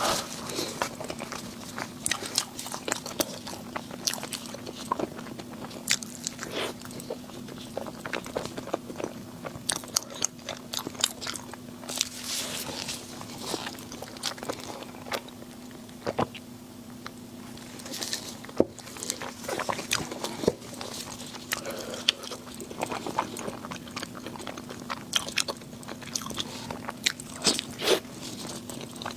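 A person eating close to the microphone: repeated bites and chewing with many sharp clicks and crackles, over a steady low hum.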